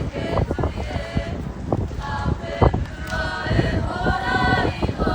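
A group of Māori children chanting together in a kapa haka performance, with sharp percussive hits scattered through the chant.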